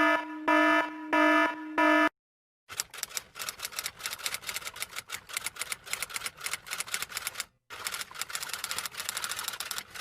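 Four short electronic beeps, then rapid key clicks of typing in two long runs separated by a brief pause.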